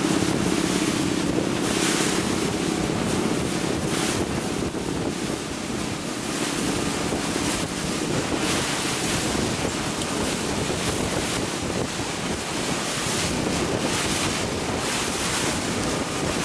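Wind buffeting the microphone in gusts over the rush of water along a moving boat's hull, with a boat engine's low steady drone that fades after about seven seconds.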